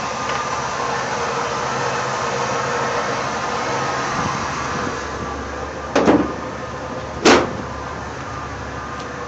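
1973 Pontiac Catalina's V8 idling steadily on its own after a cold start. Two sharp thumps about six and seven seconds in are the loudest sounds.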